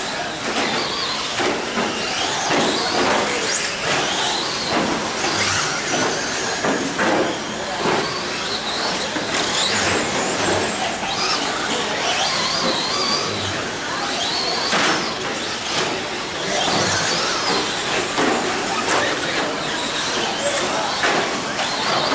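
Radio-controlled short course trucks racing. Their motors give high whines that rise and fall as they accelerate and brake, over tyre scrabble and frequent short knocks from landings and bumps.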